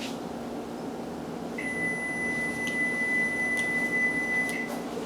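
A single long electronic beep: one steady high tone that starts about one and a half seconds in and holds for about three seconds before stopping.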